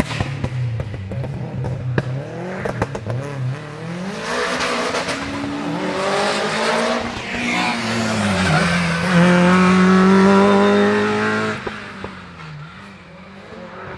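A Peugeot hatchback's engine revving hard as it is driven at speed, its pitch climbing and falling repeatedly through the gear changes, then held high and loud for a couple of seconds. It cuts off abruptly near the end, leaving a fainter, distant engine.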